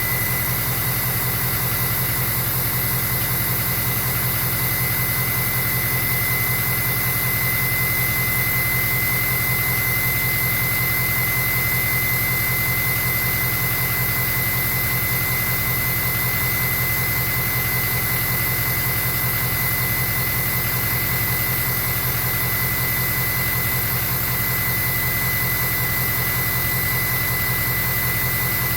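A 2003 Ford 6.0 Powerstroke V8 turbodiesel, on a stock tune with a Turbo Time 64mm Type S Velocity Port turbo, idling steadily at its exhaust while warming up. A steady low rumble carries a thin, steady high whistle above it.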